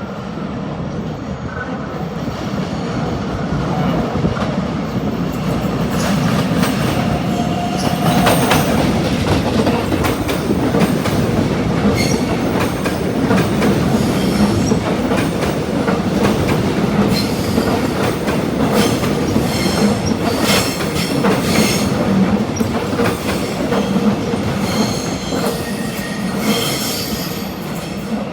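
A train running over rail joints and points: steady rumble with many sharp wheel clicks and short bursts of high wheel squeal. It grows louder over the first few seconds.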